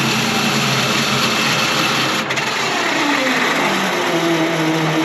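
Detroit Diesel 12V71 two-stroke V12 generator engine running with a whirring mechanical noise. This is the starter engaging while the engine is already running. About two seconds in the pitch drops away, then settles to a new steady tone.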